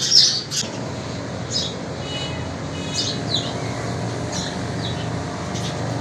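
Small birds chirping: a quick run of short, high calls in the first half second, then single calls every second or so. A steady low hum runs underneath.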